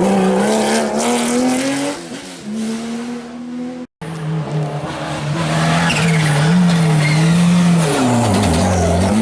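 Historic rally car engines running hard and revving through gear changes. The first car quietens as it moves away, then the sound cuts abruptly just under four seconds in to another car revving hard, its revs rising and falling as it shifts.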